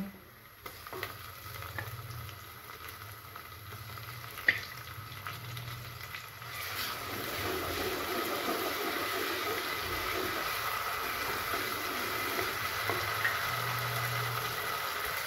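Chopped onion and ginger-garlic paste sizzling in hot oil in an aluminium pressure cooker, stirred with a wooden spatula. A sharp click sounds about four and a half seconds in, and the sizzle grows louder and steadier about six seconds in.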